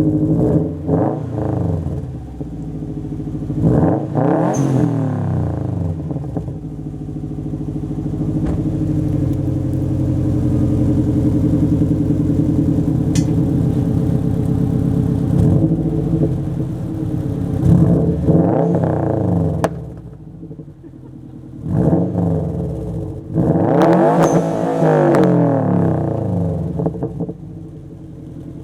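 Engine of a 2007 Subaru Legacy GT spec.B (turbocharged 2.5-litre flat-four) idling with a rumble through a Nameless catback exhaust with muffler delete. It is revved several times, each rev climbing and then dropping back to idle.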